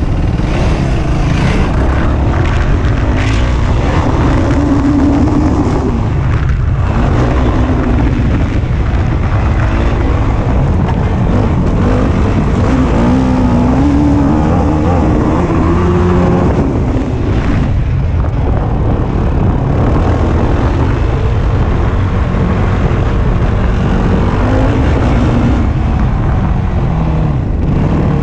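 Yamaha YFZ450 sport quad's single-cylinder four-stroke engine revving hard and easing off again and again, with the throttle chopped briefly a couple of times, under heavy wind rumble on the onboard microphone.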